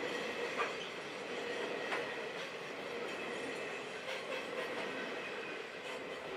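Grain hopper wagons of a freight train rolling past on the rails, the wheels giving a steady squealing whine over the rumble. A couple of sharp wheel clicks stand out, the loudest about half a second in and another about two seconds in.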